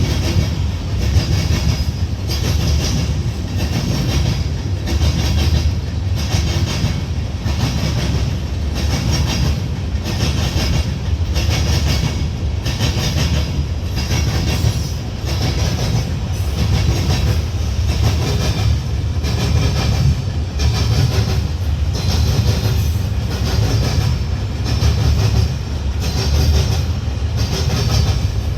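Freight train cars rolling past, a steady rumble of wheels on rail with a regular clickety-clack as the wheels cross rail joints.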